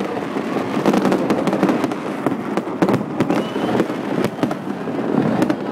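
Fireworks going off in quick succession: a loud, continuous rumble of bursts with many sharp cracks and pops throughout.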